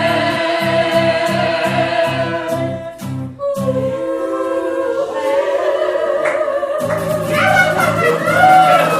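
Live band playing a song, with voices singing long held notes over an even bass pulse. The bass pulse drops out about three and a half seconds in, and the full band comes back in near the end.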